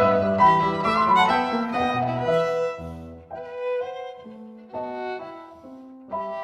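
Violin music playing a melody of held notes over lower accompaniment. It is fuller and louder for the first few seconds, then drops to quieter, separate notes.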